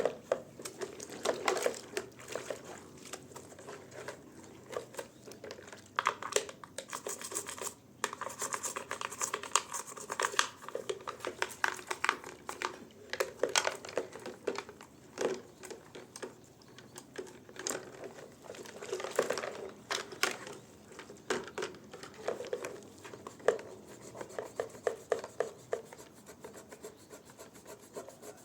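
Scrubbing by hand in irregular rubbing and scraping strokes, mixed with many small clicks and knocks, as from cleaning a washing machine.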